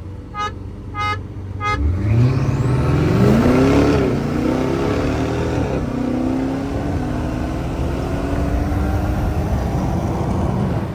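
Three short beeps, then a turbocharged BMW launching hard at full throttle, its engine note climbing steeply and dropping back at several quick upshifts before climbing steadily again.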